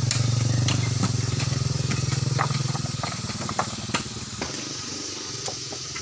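An engine running with an even low hum that fades away about three seconds in, with scattered clicks and crackles.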